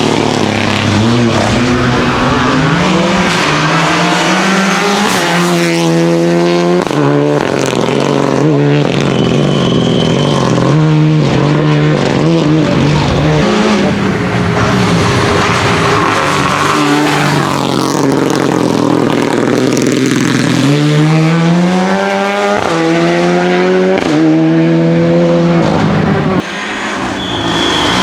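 Renault Clio Rally4 rally car engine revving hard under full acceleration: the pitch climbs through each gear and drops back at every upshift, several times over, with tyre noise on the stage.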